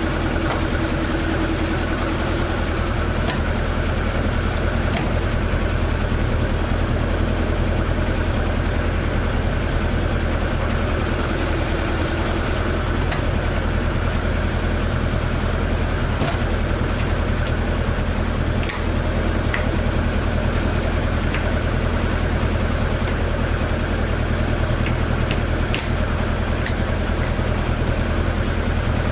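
Toyota AE86's swapped-in AE101 4A-GE 20-valve four-cylinder engine idling steadily, with a few short clicks here and there.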